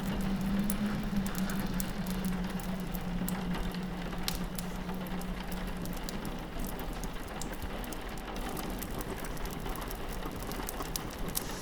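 Rain pattering steadily on a window mixed with the irregular snaps and pops of a crackling wood fire. A low steady hum sits underneath and fades out about halfway through.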